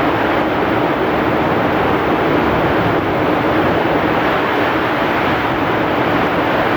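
Heavy rain with strong wind: a dense, steady hiss of downpour that holds at one level throughout.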